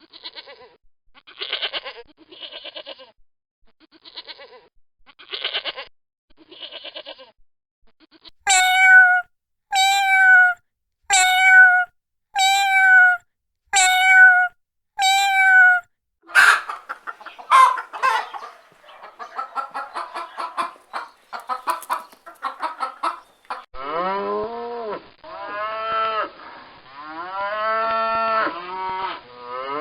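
A succession of farm-animal calls: short bleating calls first, then six loud, evenly spaced calls about a second apart, then a mix of calls, and near the end a series of rising-and-falling calls.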